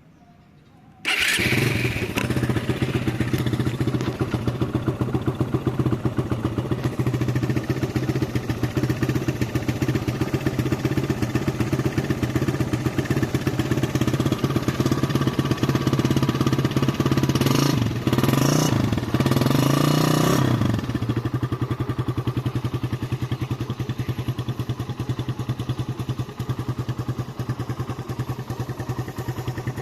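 Suzuki Satria FU's 150 cc single-cylinder four-stroke engine, on its standard exhaust, starts about a second in and idles steadily. Near the two-thirds mark the throttle is blipped twice, the revs rising and falling, before it settles back to idle.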